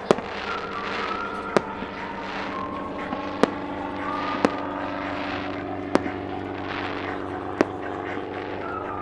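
Fireworks mounted on a helicopter going off: six sharp bangs spaced one to two seconds apart, over the steady drone of the helicopter's engine and rotor and the hiss of the burning pyrotechnics.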